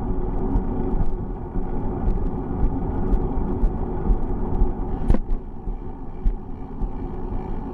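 Wind rushing over the microphone and the rumble of bicycle tyres on the road while riding, with scattered small clicks and one sharper click about five seconds in.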